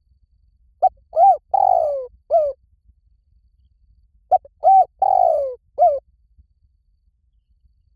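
Spotted dove cooing: two four-note phrases about three and a half seconds apart, each a short note, a rising-falling coo, a longer coo falling in pitch, then a short closing note.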